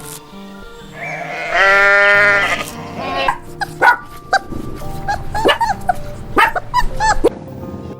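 A single long, wavering bleat, loud, about a second and a half in, over steady background music. It is followed by a run of short, quick chirps.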